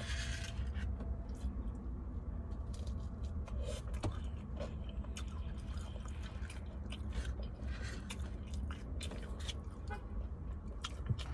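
A person chewing fried chicken strips close to the microphone, with scattered small mouth clicks and smacks. A steady low hum runs underneath.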